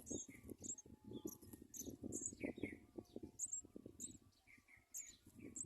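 House sparrows chirping: short, high chirps repeating several times a second, over a low rustling and scuffling.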